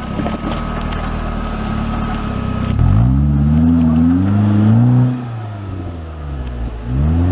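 Off-road 4x4 engine running, then revved hard about three seconds in, held at high revs, dropping back about two seconds later and revving up again near the end.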